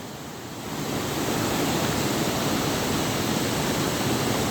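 Waterfall rushing, a steady hiss of falling water that grows louder about a second in.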